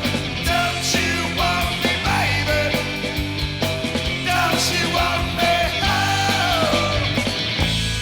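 Live rock band playing loudly: drums keeping a steady beat under a held bass, with a lead melody line that slides and bends in pitch.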